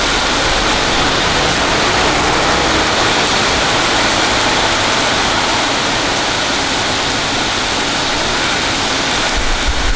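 Heavy rain pouring down, a loud steady hiss without a break.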